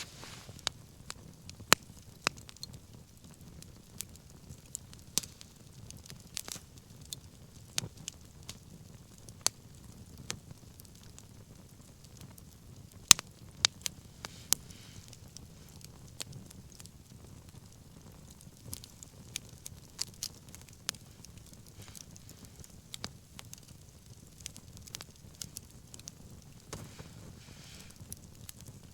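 Wood bonfire crackling, with irregular sharp pops scattered throughout, the loudest about thirteen seconds in, over a low steady rumble.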